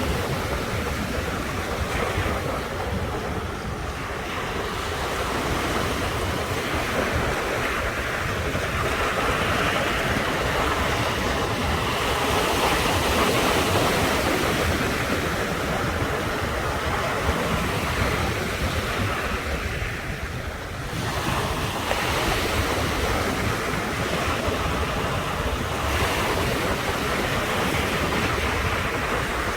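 Ocean surf breaking on the shore, a continuous wash of water that swells and eases over several seconds, with wind buffeting the microphone.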